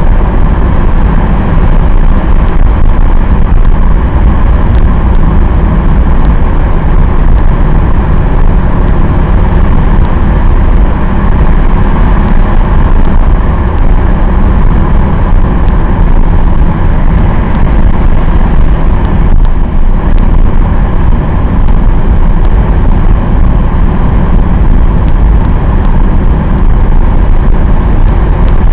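Mercedes-Benz 190D 2.5's OM602 five-cylinder diesel engine running steadily at cruising speed, with loud, unchanging road and tyre noise, heard from inside the cabin.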